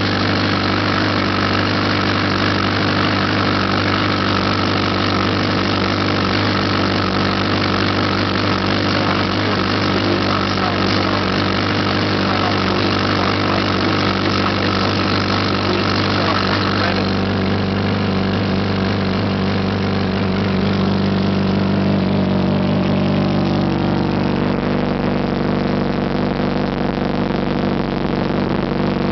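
A 2008 Yamaha R1's inline-four idling steadily from a cold start through a Two Brothers Racing slip-on exhaust. A little over halfway through, the sound changes: the higher-pitched part fades and a lower hum grows stronger.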